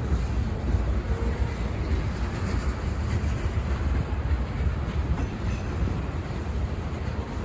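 Freight train cars rolling past with a steady rumble.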